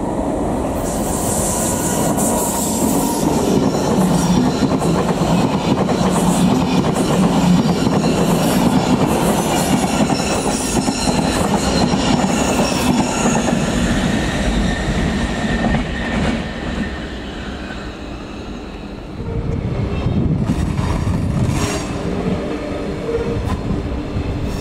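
Locomotive-hauled SBB passenger train rolling along the platform track: a steady rumble of coaches on the rails with repeated wheel clicks over joints and a high wheel squeal in the first few seconds. Near the end the rumble dips, then a steady hum joins in.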